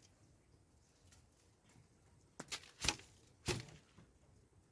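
A few sharp knocks or clicks over a quiet background, the three loudest coming about half a second apart in the second half.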